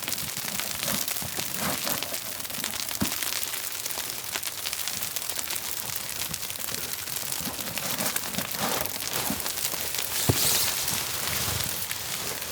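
Freezing rain pattering steadily on a tarp as a dense, crackly hiss, with a few soft thumps.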